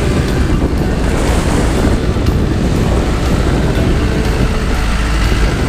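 Wind buffeting the microphone over surf washing on the beach, a steady rushing noise with no distinct events.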